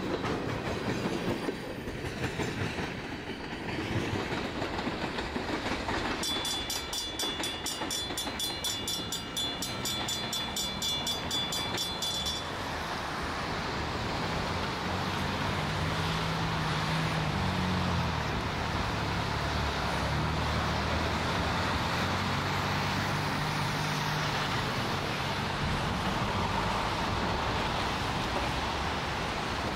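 Freight train tank cars rumbling and clacking past over a grade crossing. About six seconds in, a rapidly repeating ring, likely the crossing signal bell, starts and sounds for about six seconds before cutting off. After that comes a steady hiss with a low, wavering hum as the train moves away.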